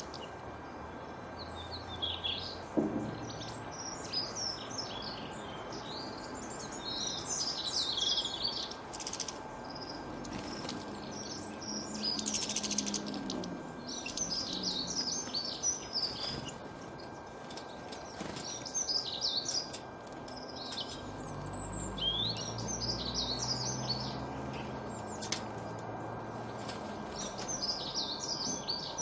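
Small birds chirping and twittering in repeated short bursts of high notes, over a steady background hiss.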